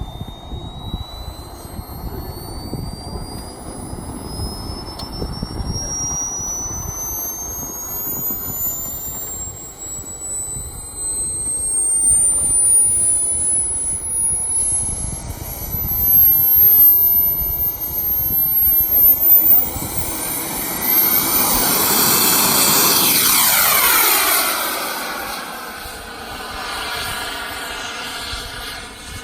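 Small turbine jet engine of a radio-controlled model jet: a high whine climbing steadily in pitch for about twenty seconds, then a loud rushing pass that swells and fades away.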